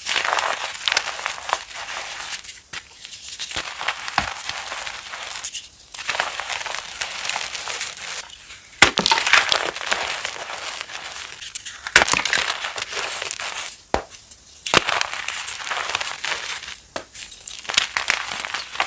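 Reformed chalk being crushed and crumbled: a dense crunching and crackling that comes in separate stretches with brief pauses between them, and a few sharp, loud cracks as pieces break.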